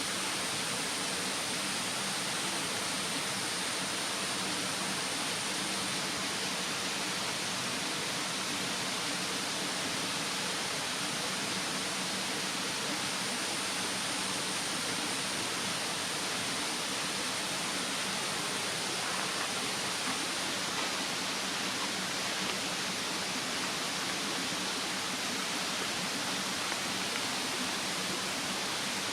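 Steady rush of a mountain stream, with a thin, high, steady insect drone above it that fades about two-thirds of the way through.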